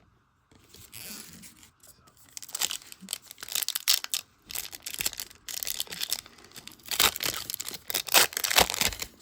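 A trading-card pack wrapper being torn open and crinkled: a run of irregular rips and crackles that grow louder and denser a couple of seconds in.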